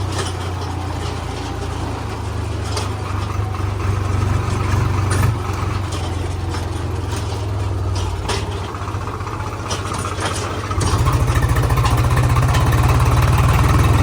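A heavy diesel engine running steadily at low revs, growing louder about eleven seconds in.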